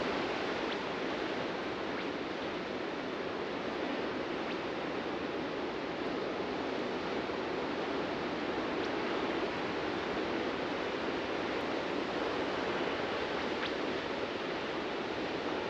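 Ocean surf breaking on a beach, a steady continuous wash of waves with no distinct single break standing out.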